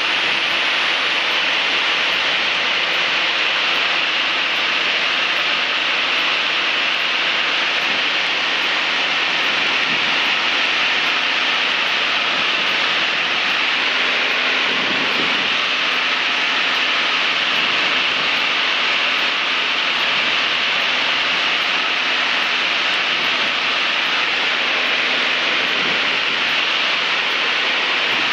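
Cessna 152's four-cylinder Lycoming engine and propeller running steadily, heard as an even rushing drone with a faint low hum underneath, unchanging throughout.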